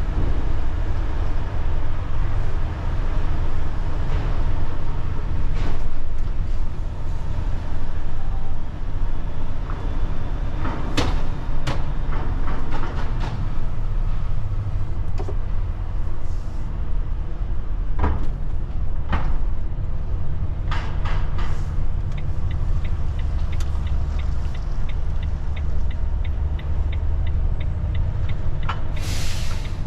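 Low, steady engine rumble of a heavy vehicle, with scattered clicks and knocks. A fast, regular ticking starts about two-thirds of the way in.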